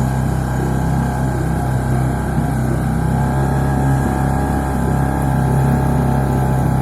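Small engine of a Salyut walk-behind tractor running steadily at an even speed.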